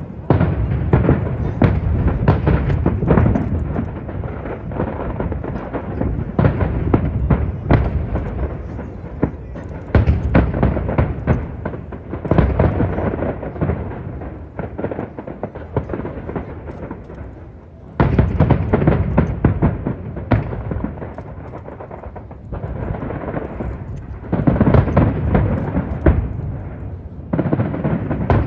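Aerial fireworks bursting in rapid volleys: many sharp bangs and crackles over a deep rumble of booms. The volleys swell and ease off in waves every few seconds, with strong gusts of wind buffeting the phone's microphone.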